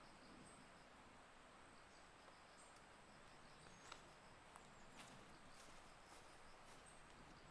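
Near silence: faint outdoor ambience with a thin, steady high tone and a few faint clicks around the middle.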